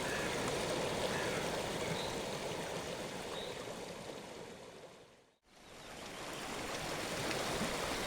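Flowing river water, a steady rushing; it fades out to silence about five seconds in, then fades back up.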